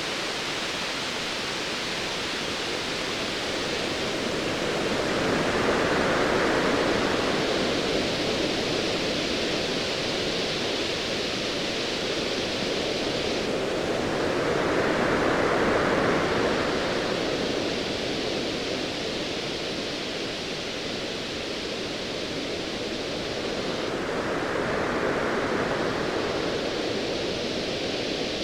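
Ocean waves over a steady wash of surf, a wave surging in and fading about every ten seconds, three times in all.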